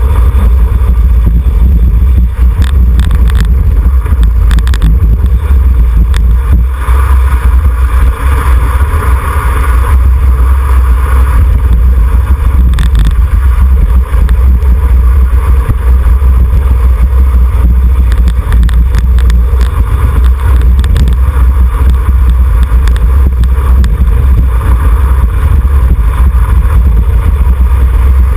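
Heavy wind rush and low rumble on a bicycle-mounted camera moving at race speed, with road and tyre noise and scattered short clicks and rattles.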